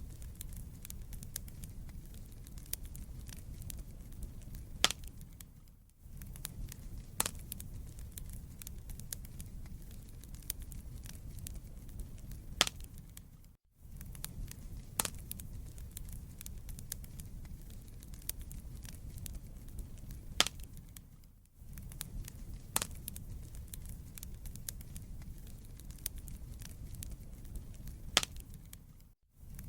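Wood fire in a fireplace crackling, with sharp snaps and pops over a low, steady rumble of burning. The sound drops away briefly every seven or eight seconds and comes straight back.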